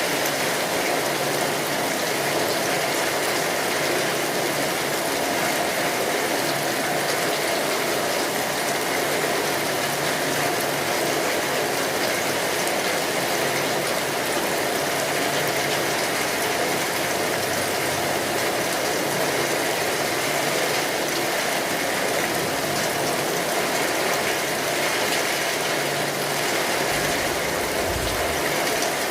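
Steady rain on a tin roof, a dense, even patter, with a wood fire crackling under it. A brief low rumble near the end.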